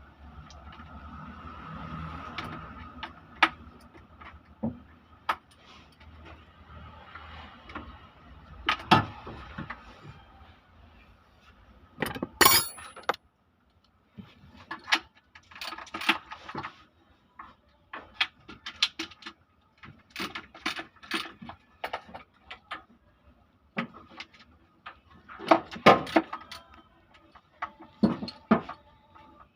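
Metal tools and engine parts clinking and clattering at irregular intervals during engine disassembly, with a quick run of sharp metallic strikes about twelve seconds in.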